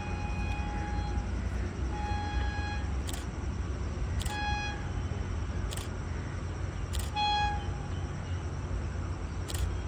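Four short, high-pitched toots of a single steady pitch from a horn, spread over several seconds, over a steady low rumble. Several sharp clicks fall between them.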